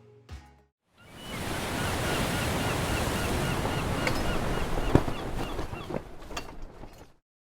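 Sea waves washing, with wind buffeting the microphone and a faint repeated chirping over it; a single sharp knock about five seconds in. The sound cuts off abruptly near the end.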